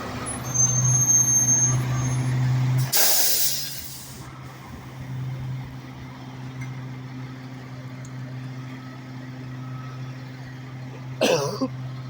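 Rear-loader garbage truck's diesel engine running steadily, with a loud burst of air-brake hiss about three seconds in. After that the engine runs on more quietly. A short, sudden sound comes near the end.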